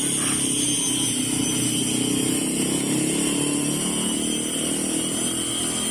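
Small two-stroke grass-cutter engine of a mini ATV running steadily with a high whine, freshly fitted with a new cylinder bore.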